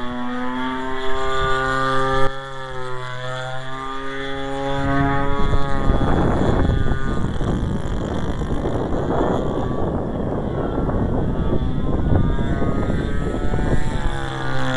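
Converted 30cc Homelite string-trimmer two-stroke engine on a giant RC plane, running with its pitch wavering slightly as the plane flies. From about five seconds in, wind buffeting the microphone drowns it out until near the end, when the engine tone comes back.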